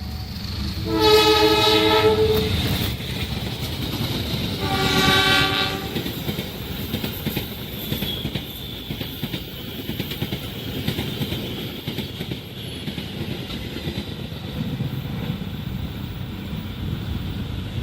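A train's horn sounds two blasts, one about a second in and another about four seconds later, each lasting around a second and a half. The train then runs past with a steady rumble and the rapid clickety-clack of its wheels.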